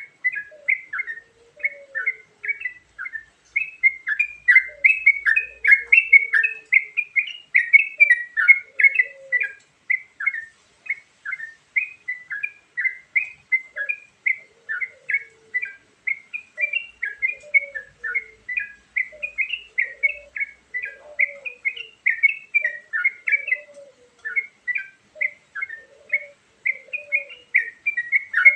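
Yellow-vented bulbul (trucukan) song: a dense, unbroken run of quick, bubbly chirps. Softer, lower warbled phrases come and go underneath.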